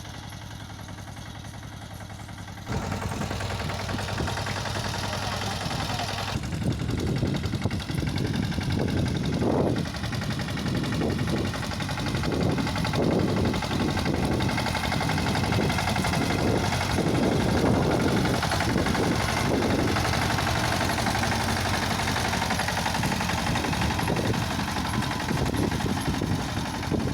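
Captain 200 DI mini tractor's diesel engine running, quieter at first and stepping up louder about three seconds in, with uneven surges through the middle.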